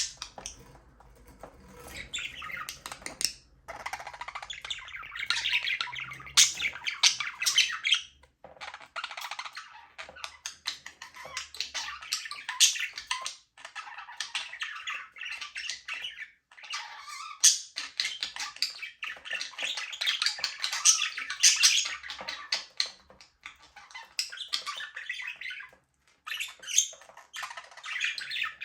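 A flock of budgerigars chirping and warbling together, with sharp squawks and clicks mixed in, the chatter nearly continuous apart from a few short pauses.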